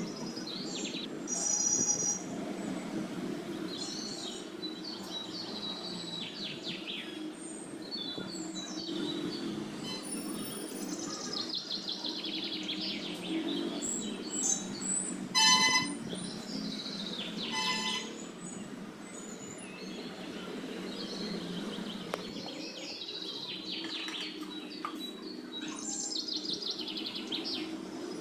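Birds chirping and calling again and again over a steady low hum, with two brief, louder sharp sounds about halfway through.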